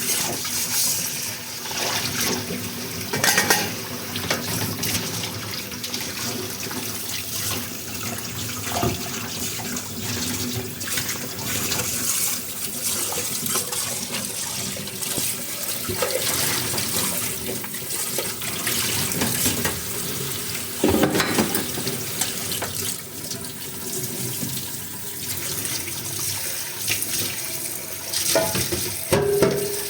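Tap water running into a sink while dishes are washed under it, the flow splashing unevenly, with a few short louder splashes or clinks.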